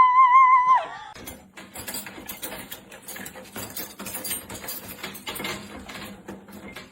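A dog howling on one held pitch with a slight waver, ending about a second in. It is followed by a long run of light scratching, tapping and rustling sounds.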